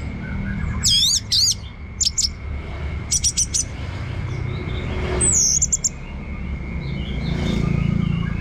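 Orange-headed thrush singing in short bursts of high, swooping whistled notes, four phrases spread over a few seconds.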